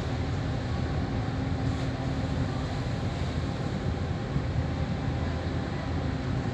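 Steady low rumble of a large ship's engines, with a faint steady hum over it.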